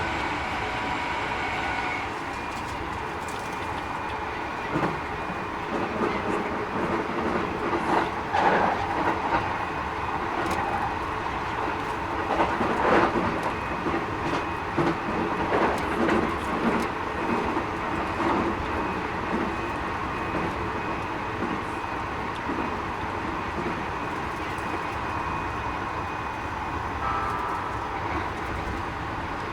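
Keikyu 1000 series train with Mitsubishi IGBT inverter running, heard from inside the car: steady noise with a few high whining tones that shift about two seconds in, and irregular knocks of the wheels over rail joints. The uploader finds this set a little noisier than others.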